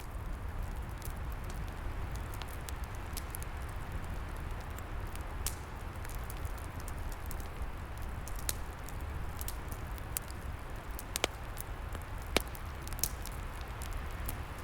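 Wood fire crackling, scattered sharp pops over a steady rush of wind in the trees, with two louder pops about eleven and twelve seconds in.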